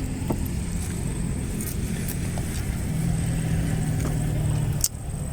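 Road traffic: a steady low engine rumble of vehicles going by, swelling into a steadier hum from about three seconds in, with a brief sharp drop in level shortly before the end.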